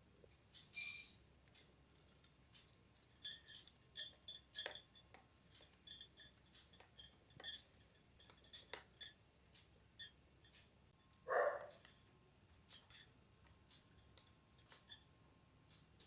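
Light, high-pitched metallic clinks and taps of miniature metal cookware, a tiny utensil knocking against a small pot, coming in irregular clusters. A short, louder scrape comes about a second in.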